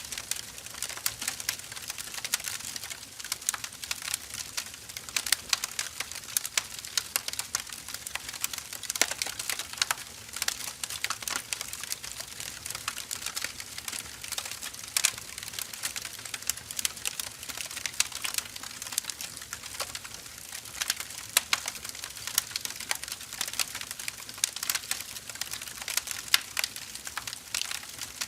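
Burning firewood crackling and popping steadily, a dense run of small irregular snaps over a soft hiss.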